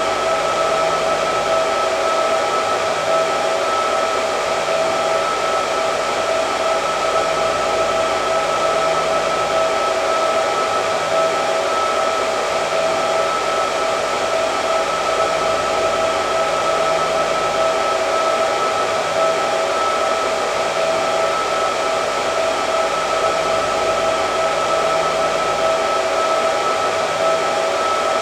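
Hair dryer running steadily: an even rush of blown air with a constant motor whine on top.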